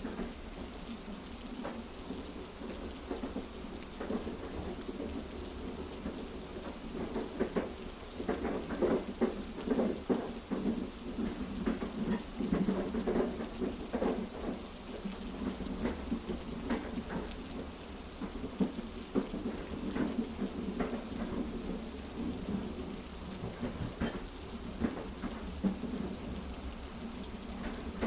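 Heavy rain falling, a dense patter of drops over a steady low rumble.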